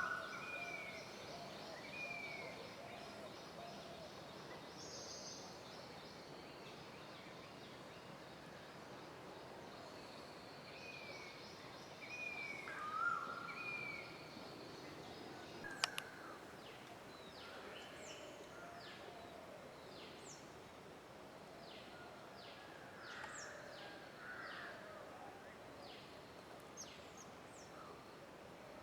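Several wild birds calling in woodland: a short downward-sliding call repeated in sets of three, a louder lower call near the middle, and a scatter of quick high chirps in the second half, over a faint steady hiss. A single sharp click comes about halfway through.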